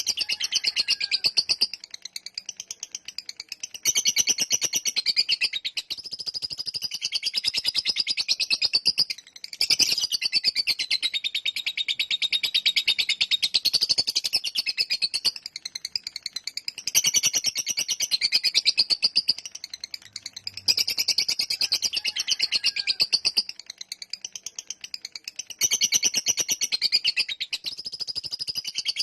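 Lovebird giving its long 'ngekek' song: runs of very fast, shrill chattering, each lasting several seconds, split by short breaks.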